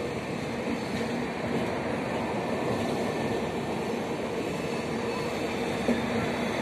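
Passenger coaches of an Indian express train rolling past on the track as it pulls out, a steady rumble of wheels and bogies with a faint steady hum. A single sharp click near the end.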